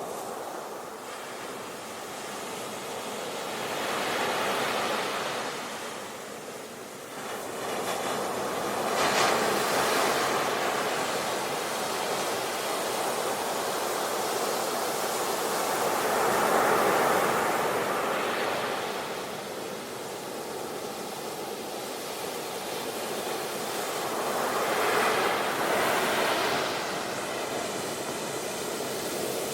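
Ocean waves breaking and washing up a beach, swelling and easing in four slow surges several seconds apart.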